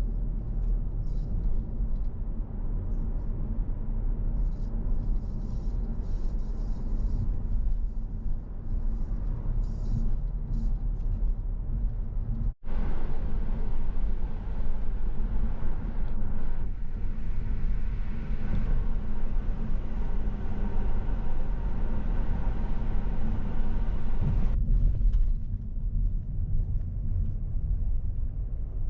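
Car on the move, a steady low road-and-engine rumble heard from inside, broken by a brief dropout about halfway through.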